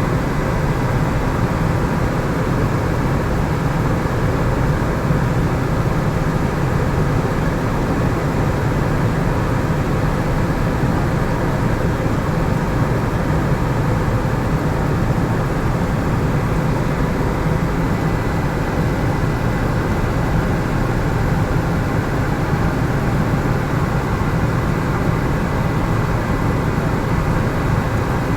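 Helicopter in steady flight, heard from on board: an unbroken drone of engine and rotor noise, heaviest in the low end, with a faint steady whine above it.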